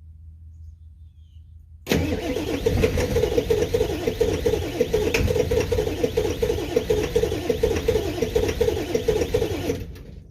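Ford 7.3-litre turbo diesel V8 with a 4-inch straight-piped exhaust, loud and rapidly pulsing in a cold-start attempt with bad glow plugs at 10 °F. It comes in suddenly about two seconds in and stops abruptly near the end.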